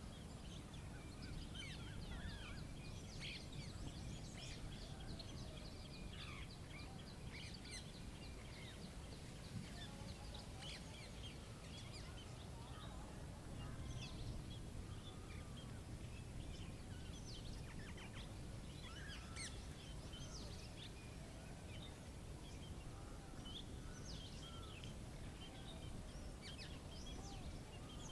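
Forest ambience: birds chirping sporadically, with many short high calls scattered throughout, over a faint steady low rumble.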